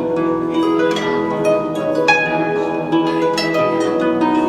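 Solo harp playing a run of plucked notes, each one ringing on under the next.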